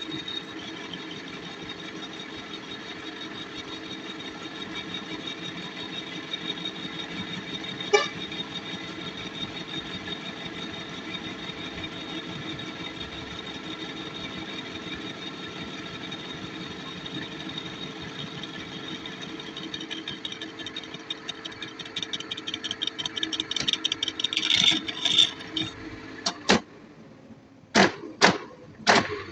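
Metal-workshop machinery running steadily, a constant hum with a crackling rattle, turning to a fast ticking chatter toward the end. Then several sharp metallic knocks.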